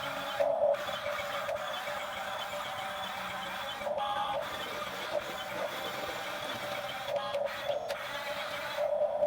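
Small electric motors and gearboxes of a Huina 1550 radio-controlled toy excavator whirring, stopping briefly and starting again a few times as its functions are worked.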